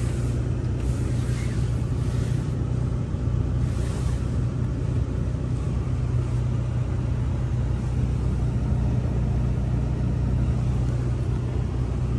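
Turbocharged Volkswagen Passat R-Line engine idling steadily, a constant low hum with no revving.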